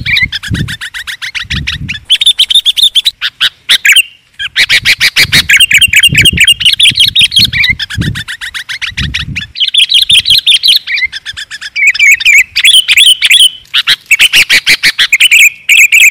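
Sooty-headed bulbul (kutilang) chattering loudly in fast runs of short, sharp notes, about a dozen a second, broken by brief pauses. Low thuds come and go underneath.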